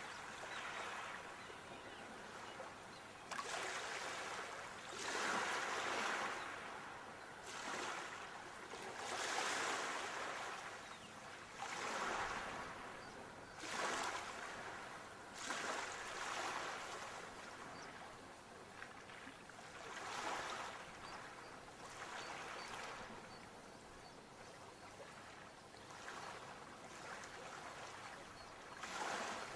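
Sea waves washing onto a shore, each swell rising and fading every two to three seconds.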